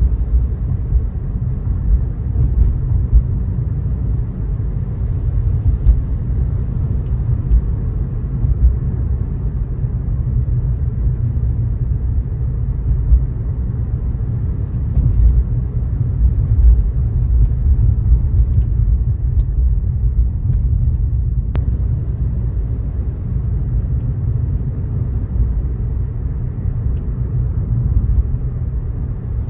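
Steady low rumble of a car driving on a wet road, mostly tyre and road noise, with a few faint ticks.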